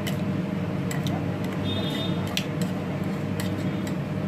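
Scattered light clicks and clinks of kitchen utensils over a steady low hum, with one short ringing clink about two seconds in.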